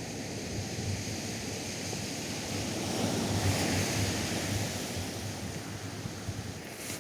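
Atlantic surf breaking and washing up a sandy beach, swelling about halfway through, with wind rumbling on the microphone.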